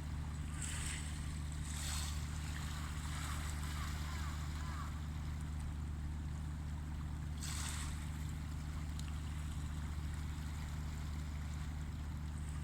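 Steady low drone of a motor ship's engines, with a few short hissing washes of waves breaking, about one and two seconds in and again near the middle.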